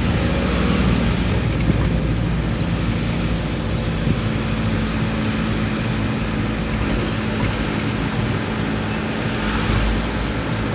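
Dump truck engine running steadily, with a constant low hum and no change in speed.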